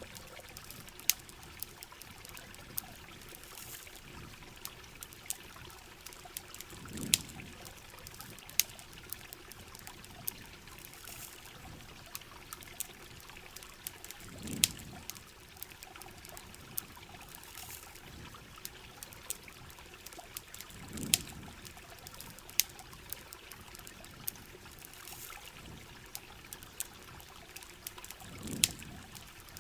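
Rain and trickling, pouring water under a steady hiss, with sharp crackling pops from a campfire scattered through it. A low swell comes back about every seven seconds.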